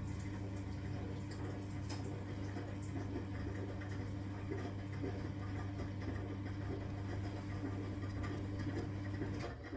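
Constructa K4 fs washing machine running: a steady motor hum with scattered clicks and rattles, which stops abruptly about nine and a half seconds in.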